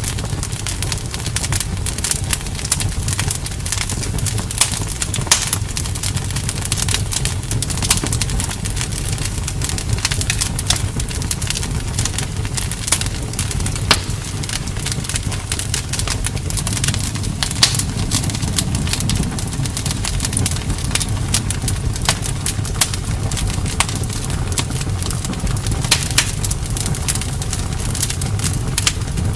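Campfire burning, with dense irregular crackling and sharp pops over a steady low rumble of the flames.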